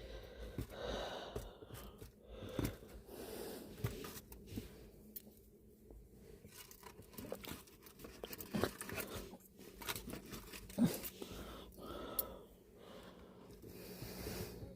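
A person eating breakfast close to the microphone: chewing and breathing, with scattered sharp clicks of cutlery.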